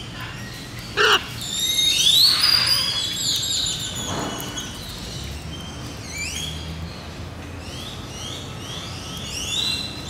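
Birds chirping, with many short, overlapping whistled calls sliding up and down in pitch. A short, loud, sharp sound comes about a second in.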